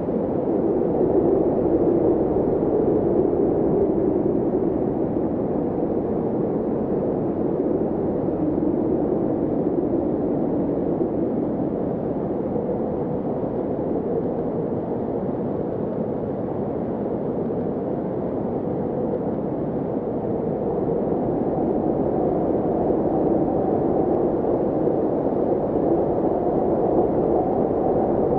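A steady, muffled rumbling drone with no clear beat, its pitch shifting slowly.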